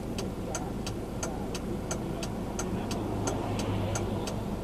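Turn-signal indicator ticking steadily, about three clicks a second, over the low hum of a car's engine and road noise inside the cabin.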